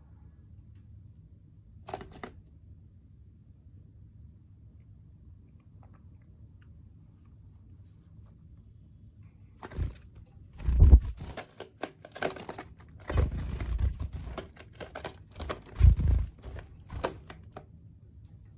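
Irregular rustling and crinkling close to the microphone, with heavy bumps, in several bursts through the second half; a single click comes earlier.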